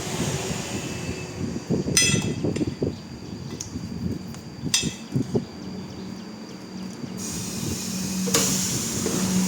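A few sharp metallic strikes with a short ring, typical of hand tools on a wheel in a tyre shop, then from about halfway a steady low motor hum that grows louder toward the end.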